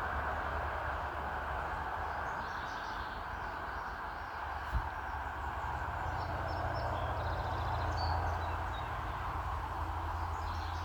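Steady outdoor background noise with a low hum underneath and faint bird chirps through the middle. A single soft click comes a little under five seconds in.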